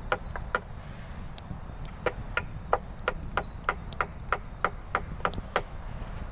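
Repeated hard strikes on wood from a hand tool, about three a second, in two runs with a short pause between them. Wind rumbles on the microphone underneath.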